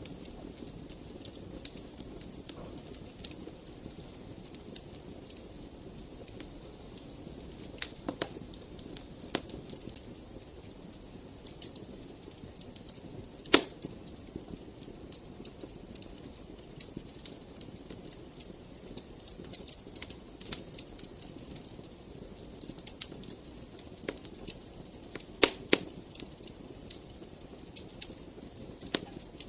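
Wood fire crackling in a fireplace: frequent sharp crackles and pops of uneven strength over a low steady hiss of flame, with one louder pop near the middle and a few more near the end.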